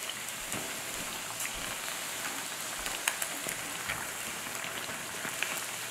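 Dough-wrapped fish pies deep-frying in a pan of hot oil: a steady sizzle with scattered small pops and crackles.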